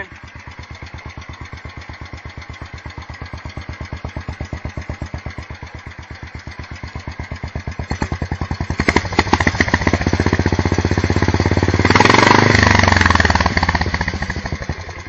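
Sears SS14 garden tractor engine running cold, just after a cold start, each firing stroke distinct. About eight seconds in it revs up and gets louder, peaking around twelve seconds, then slows down again near the end as it starts to die.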